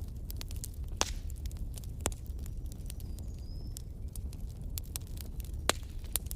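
Wood fire burning in a fireplace: a steady low rumble of flame with irregular crackles and pops from the logs, a few sharper pops standing out.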